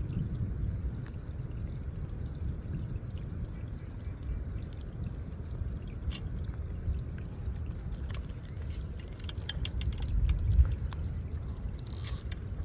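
Stormy outdoor ambience: a steady low rumble with light rain, and a quick run of small clicks and ticks from about eight to ten seconds in.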